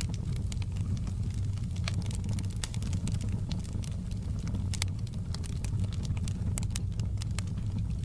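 Log fire burning in a fireplace: irregular sharp crackles and pops, several a second, over a steady low rumble.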